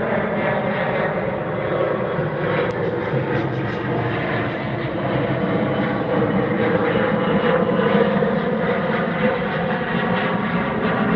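Twin-engine jet airliner taking off, its engines giving a steady, loud rumble with a low drone that holds throughout.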